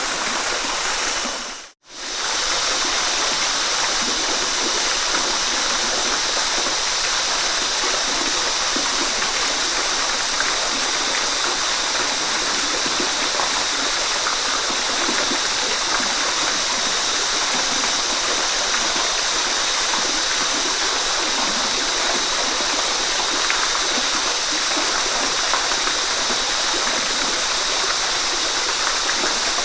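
Waterfall: a steady rush of falling water. It briefly fades out to silence and back in about two seconds in.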